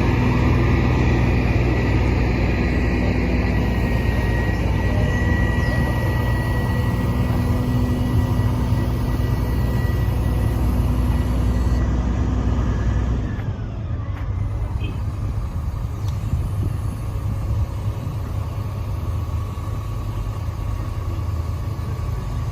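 A car engine idling close by, a steady low rumble that drops away sharply about 13 seconds in, leaving a quieter engine rumble and background murmur.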